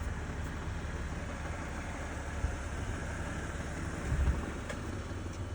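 BMW 328i's inline-six engine idling steadily, with a brief low thump about four seconds in.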